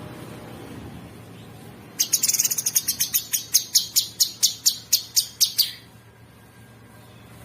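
A cucak sungkok songbird calling in a rapid, harsh run of sharp high chirps. The chirps start about two seconds in and stop after roughly four seconds.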